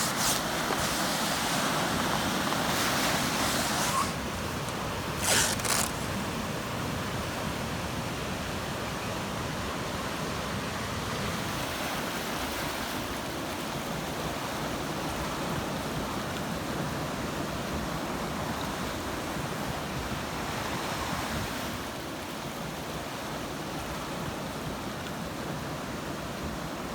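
Ocean surf washing steadily, a continuous rushing of waves. It is somewhat louder in the first few seconds, with a couple of short, sharp swishes about five seconds in.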